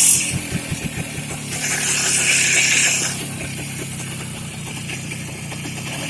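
Voskhod 3M motorcycle's single-cylinder two-stroke engine running after ten years of standing unused, with a short loud burst at the start and a louder, hissier stretch about a second and a half in before it settles back.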